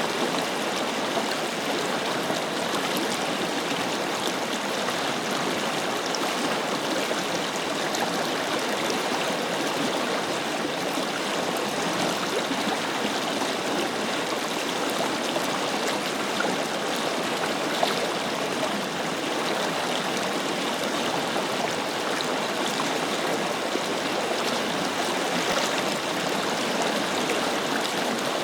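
Forest river flowing over rocks: a steady rush of running water with gurgling and trickling, unchanging throughout.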